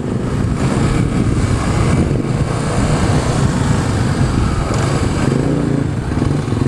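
Dirt bike engine running steadily and loudly.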